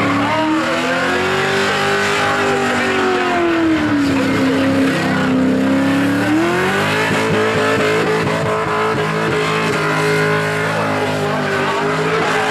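A burnout car's engine is held at high revs while its spinning rear tyres screech. The revs rise, sag about four seconds in, then climb again and hold steady from about seven seconds on.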